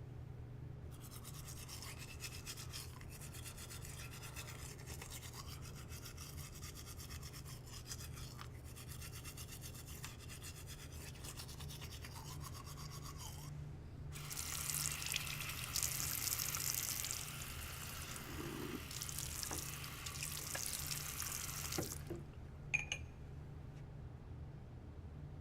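Rapid, even brushing strokes for about thirteen seconds, then a louder steady hiss of running water for about eight seconds, over a low steady hum. A single sharp click comes near the end.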